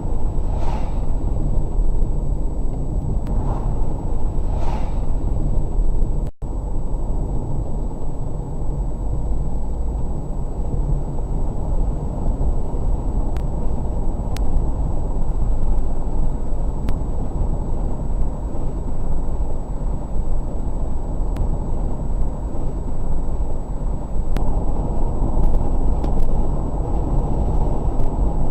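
Steady road and engine noise of a car driving, picked up by a dash cam, with a brief dropout about six seconds in where the recording is corrupted.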